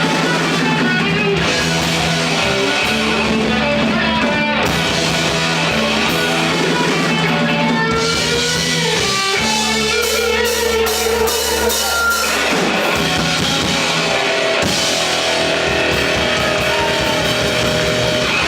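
Rock music: an instrumental passage of electric guitar with bass and a drum kit playing continuously.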